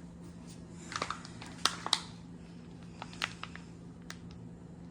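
A few light clicks and taps from handling things at a kitchen counter: the icing packet and muffins being worked with. The two sharpest taps come a little under two seconds in, and a few smaller ones follow, over a steady low hum.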